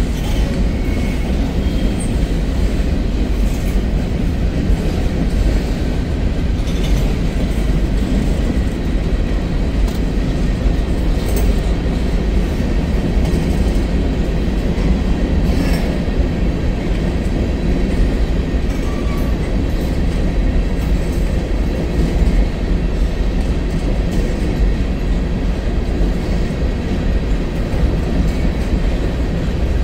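Freight cars of a long mixed-freight train rolling past: a steady low rumble of steel wheels on rail, with a couple of brief sharp clicks midway.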